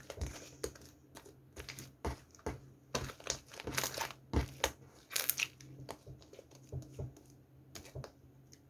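Slime being squeezed and stretched by hand, giving irregular crackles and little pops, thick for the first five seconds and thinning out toward the end, over a faint steady low hum.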